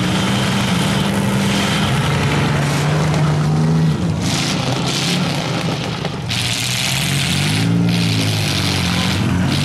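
Demolition derby car engines running at high revs, held steady and then revved up and down near the end, with a rushing noise over the middle.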